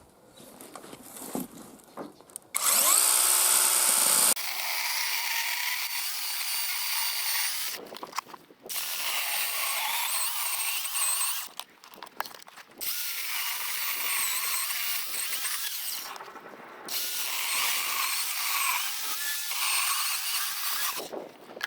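Power drill starting up with a rising whine about two and a half seconds in, then running in four stretches of three to four seconds each with short pauses between, working into the material.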